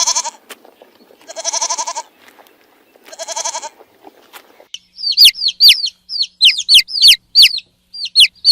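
A goat bleats three times, each bleat wavering. About halfway through, a bird takes over with a quick run of high chirps that slide down in pitch, two or three a second.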